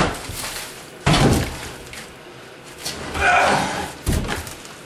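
Old wooden shelving being knocked and pulled apart: a sharp bang at the start, a heavier thud about a second in, a longer rough scraping noise around three seconds, and another thud near the end.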